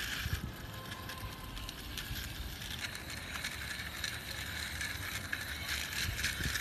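Small plastic toy airplane pushed by hand along a hard surface, its plastic wheels rolling with a continuous clicking rattle.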